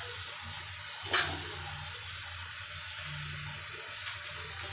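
Masala of browned onions and ginger-garlic paste sizzling in hot oil in a steel kadhai, a steady hiss, with one short sharp knock about a second in.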